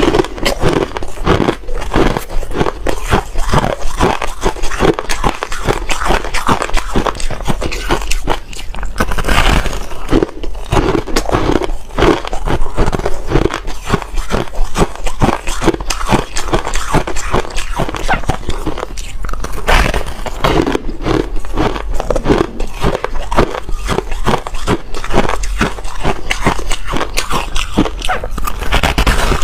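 Ice being bitten and chewed close to the microphone: a continuous run of loud, rapid crunches and cracks.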